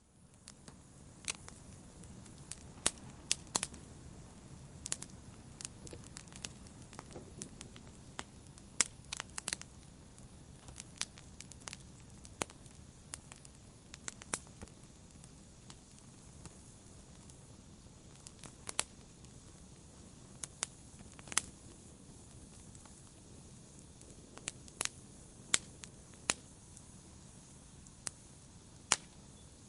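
Wood fire crackling in a fireplace: sharp pops and snaps at irregular intervals, some in quick clusters, over a steady low hiss of the burning fire.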